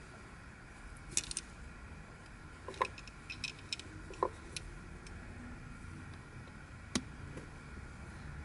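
Plastic pieces of a Fisher Wheel of Time twisty puzzle clicking and clacking as they are handled and fitted together: a scattering of short sharp clicks in small clusters, the loudest a little over a second in, near three seconds, just past four seconds and at seven seconds.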